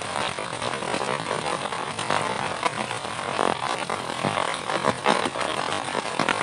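Heavy rain falling steadily, a dense hiss with many irregular sharp drop impacts close by.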